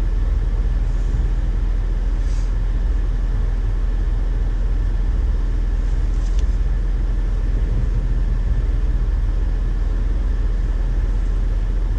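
2008 Honda Ridgeline's 3.5-litre V6 running steadily, heard from inside the cab as an even low rumble.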